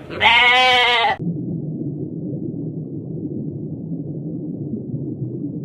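A single loud bleat of about a second, wavering slightly in pitch, followed by a steady low rumble of background noise.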